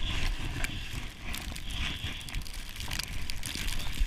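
Irregular crunching and scraping in snow, with wind rumbling on the microphone.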